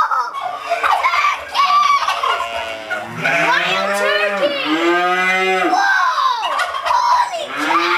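Cattle mooing: several long, drawn-out moos one after another.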